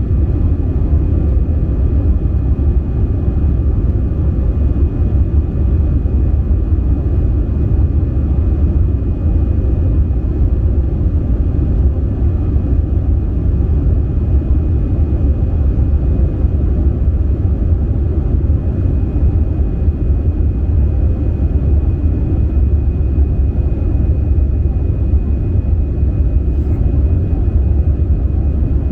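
Airbus A320 cabin noise in flight: a deep, even rumble of the engines and airflow, with a faint steady high whine above it.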